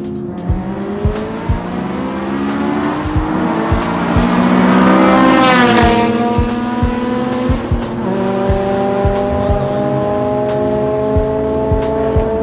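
A car engine accelerating hard and passing, its pitch climbing to a loud peak and then dropping sharply as it goes by, followed by another engine pulling steadily, over music with a steady beat.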